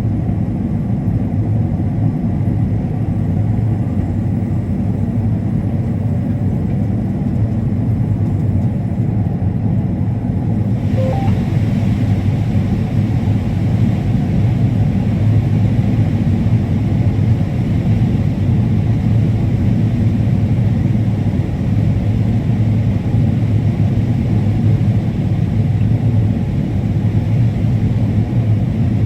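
Combine harvester running steadily while harvesting corn, a continuous low rumble as heard from the cab. About eleven seconds in, a higher hiss joins and stays.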